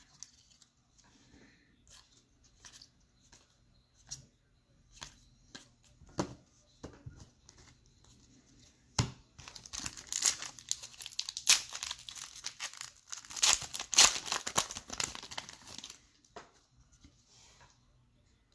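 A trading-card pack wrapper being torn open and crinkled in the hands, with light handling clicks first, a sharp snap about nine seconds in, then several seconds of dense crinkling and tearing.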